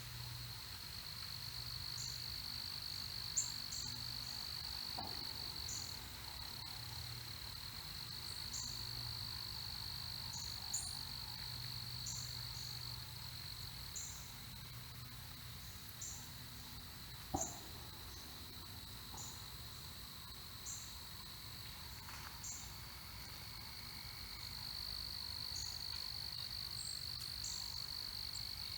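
Steady, high-pitched insect trill, with short high chirps scattered at irregular intervals and a low hum underneath, plus a few faint clicks.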